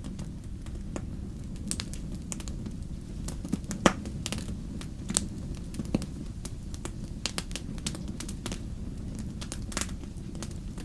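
Wood fire crackling in a fireplace: a steady low rumble of flames with irregular sharp pops and snaps, the loudest about four seconds in.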